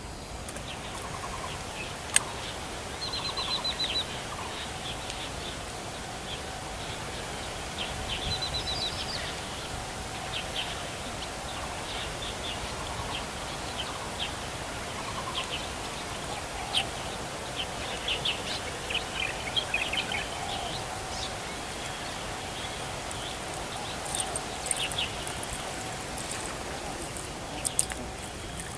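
Birds chirping and calling in many short chirps and quick trills, over a steady faint hum and outdoor background noise. One sharp click comes about two seconds in.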